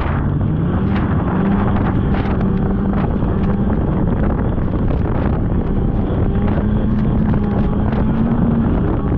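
Polaris snowmobile engine running under way on a trail, its pitch climbing early on and again near the end with the throttle, easing in between. Wind buffets the microphone, with scattered light knocks from the ride.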